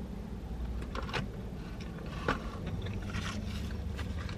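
Close-up mouth sounds of biting and chewing a hot dog in a bun: soft wet chewing with a few sharp clicks, the loudest just past two seconds in.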